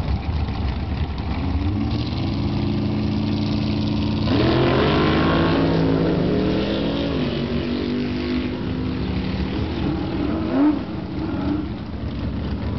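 Drag-racing car engine idling at the starting line, then launching at full throttle about four seconds in, its note climbing as the car pulls away down the strip and fading after about eight seconds. A short, sharp rev comes near the end.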